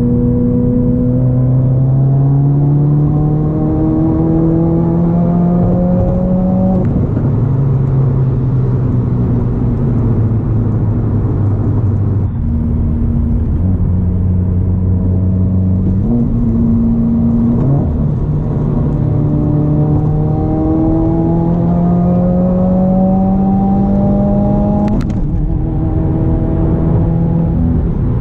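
Car engine under acceleration, its pitch climbing steadily, dropping at a gear change, running lower for a while with a couple of short rises, then climbing again and shifting once more near the end.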